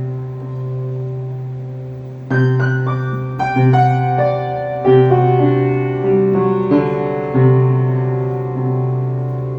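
Slow piano music. Held notes ring and fade, and from about two seconds in new notes are struck every second or so.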